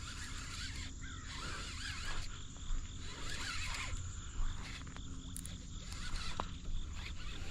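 Outdoor ambience of many small animal calls, short chirps overlapping throughout, over a steady low rumble.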